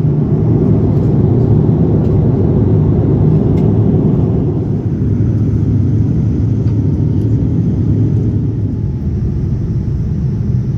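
Steady low rumble of an airliner's engines and airflow heard from inside the passenger cabin, easing slightly about halfway through.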